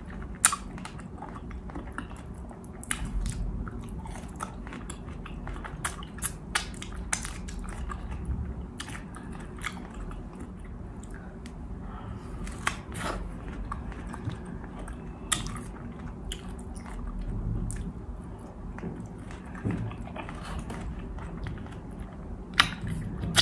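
A person chewing and biting strawberries close to the microphone, with many short, sharp mouth clicks at irregular intervals.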